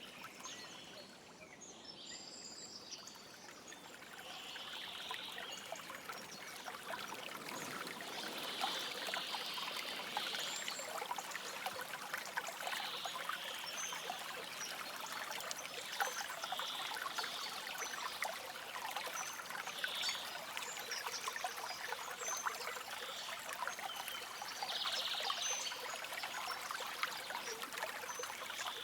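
Forest stream flowing and trickling steadily, with many small splashes, softer for the first few seconds.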